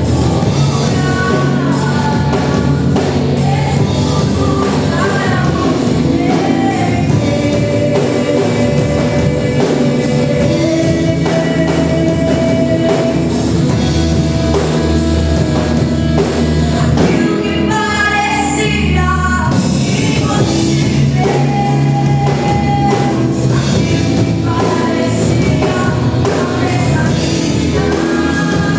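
Church worship band playing a gospel song with singing, the music steady and loud with a regular beat throughout.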